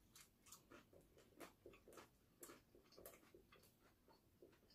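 Very faint eating sounds, close to silence: irregular small clicks and smacks of chewing, a few a second.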